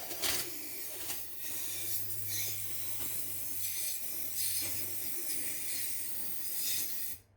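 A steady hissing spray that cuts off suddenly near the end: a jet blasting the brain out of a whitetail deer skull.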